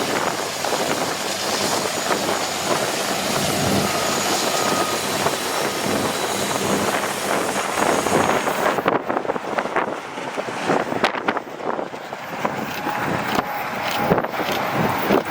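Freight train rolling past on the rails: a steady rush of wheel and rail noise with wind on the microphone. About nine seconds in the sound changes abruptly to a duller rumble with many sharp clicks and knocks.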